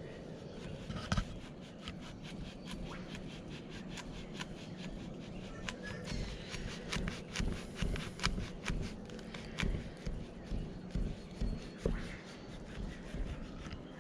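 Handmade wooden boxes of a native bee split hive being worked apart by hand: a run of sharp clicks, knocks and scraping, coming thickest in the second half.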